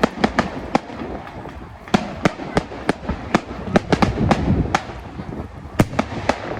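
Fireworks going off: an irregular series of sharp bangs and cracks, more than a dozen, over a low rumble.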